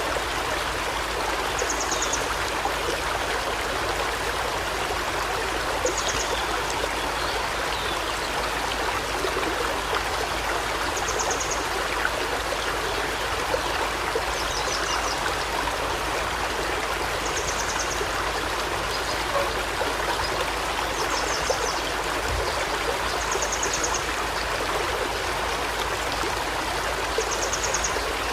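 Steady rush of a flowing river, with a bird's short, high trill repeating about every three to four seconds.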